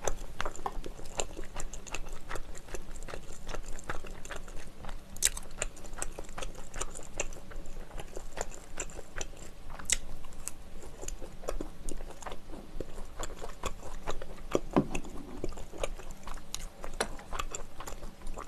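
A person chewing food close to the microphone, with a steady run of many quick small mouth clicks.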